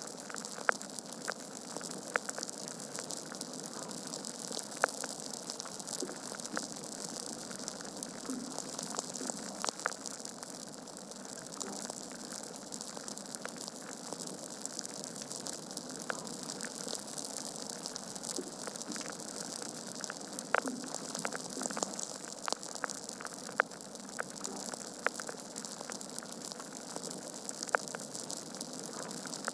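Wood logs burning in a fireplace, crackling: a steady hiss with frequent sharp pops at irregular intervals, a handful of them much louder than the rest.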